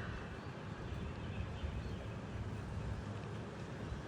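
Steady outdoor background noise, an even low rumble with no distinct events.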